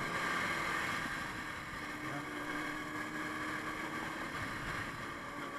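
Motorcycle engine running steadily at cruising speed under a constant rush of riding wind, with a steady low hum from the engine.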